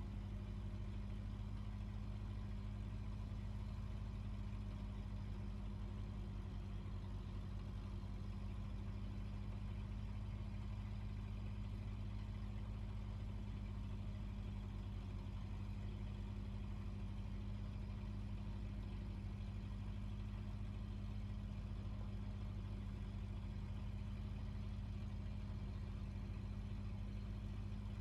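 Fishing boat's engine running steadily with an even low hum.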